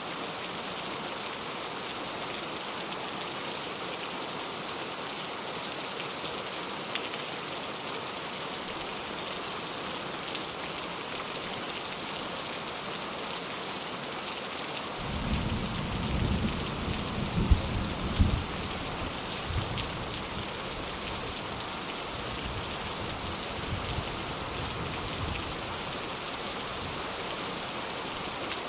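Steady rain falling. About halfway through, a low rumble of thunder comes in, swells to a couple of louder peaks over the next few seconds, then fades.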